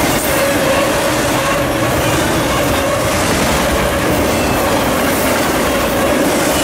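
Freight train of enclosed autorack cars rolling past close by: a steady, loud rumble of wheels on rail, with a steady tone running through it.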